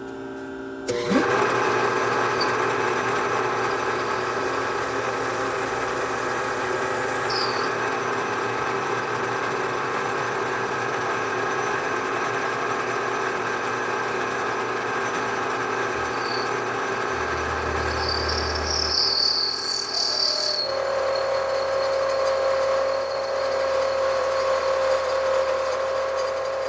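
Bridgeport milling machine cutting a part, a steady machining sound with several held tones. It jumps up sharply about a second in, and its tone changes about twenty seconds in.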